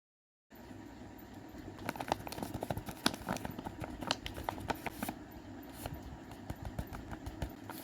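A taped paper squishy being squeezed and handled, its paper and tape crinkling in quick, irregular crackles, starting about half a second in over a low steady hum.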